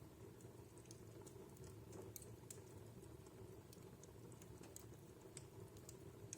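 Wood fire in a fireplace crackling faintly: irregular small pops and snaps over a low steady rumble of the burning logs.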